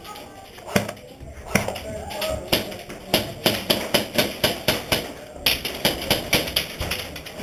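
Airsoft guns firing in a run of sharp snaps, several a second, with BBs hitting hard surfaces nearby.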